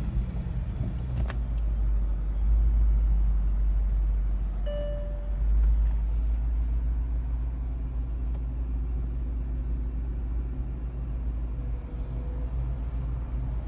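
2008 Volkswagen Touareg's 4.2-litre FSI V8 idling just after start-up. Engine speed rises a little about two seconds in and again around five seconds, then settles to a steady low rumble. A short beep sounds about five seconds in.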